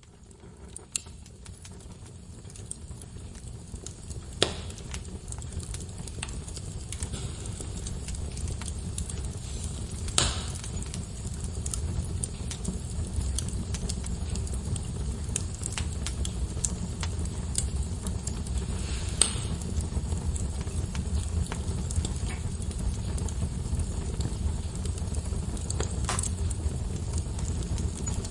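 Wood fire in a fireplace crackling, with scattered sharp pops over a steady low rumble of flame. The sound fades in over the first ten seconds or so.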